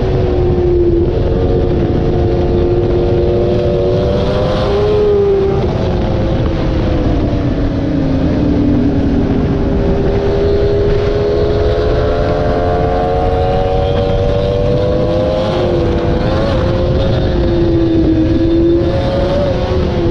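Superstock-spec Honda Fireblade's inline-four engine at racing speed, its pitch climbing through the gears and dropping under braking several times, over heavy wind rush.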